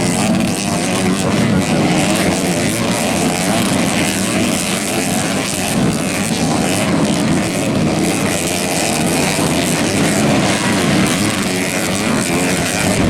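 Dirt bike engines on a grasstrack or motocross circuit, revving up and down as the riders open and close the throttle.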